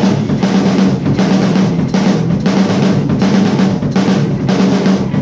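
Drum kit played in a steady rock beat, with snare and cymbal hits landing about every half second to second, over a steady low sustained note.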